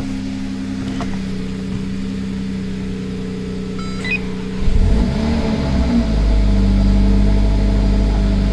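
A car engine idling steadily. About four seconds in there is a short electronic beep, and just after it a louder, deeper-sounding engine starts up and settles into a heavy idle.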